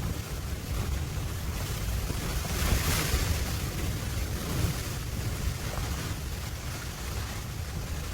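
Blizzard wind gusting and buffeting the microphone as a low rumble under a steady hiss, swelling into a stronger gust about three seconds in.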